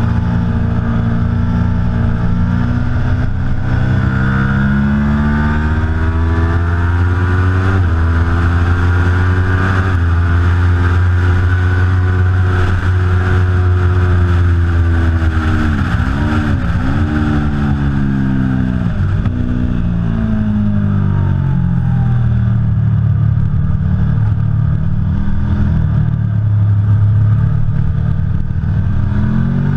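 Aprilia Tuono V4 Factory's V4 engine ridden hard on track, its revs climbing through upshifts and held high. Past the middle the pitch drops sharply twice as it shifts down, then it runs at lower revs and builds again near the end.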